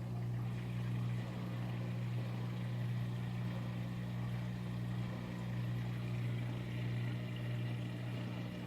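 Aquarium pump running with a steady low hum, with no change throughout.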